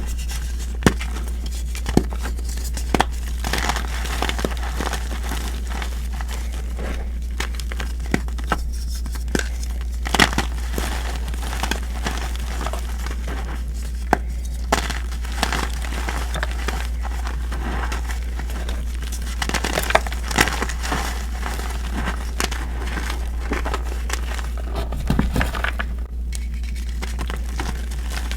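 Gym chalk being crumbled and crushed: irregular crunching and crackling with many scattered sharp snaps, over a steady low hum.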